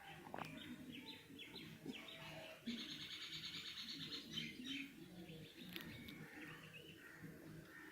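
Small birds chirping and twittering in quick runs of short high notes, busiest in the middle, over a faint low hum.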